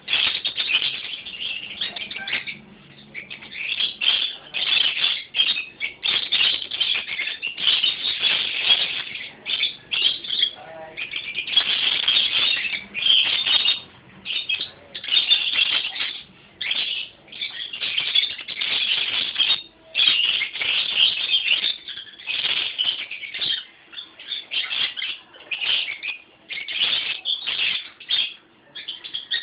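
Sun conure screeching: loud, harsh calls repeated over and over in bursts with short gaps between them.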